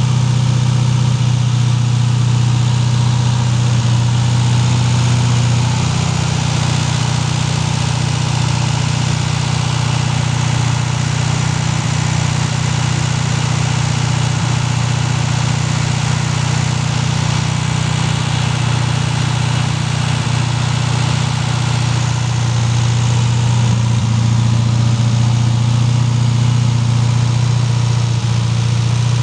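Volkswagen Beetle's air-cooled flat-four engine idling steadily, heard up close at the open engine bay. The idle note shifts slightly about six seconds in and again about twenty-four seconds in.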